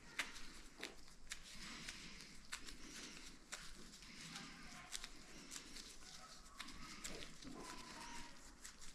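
Faint scattered clicks and rustling, with a few brief squeaks, as materials are handled at a workbench.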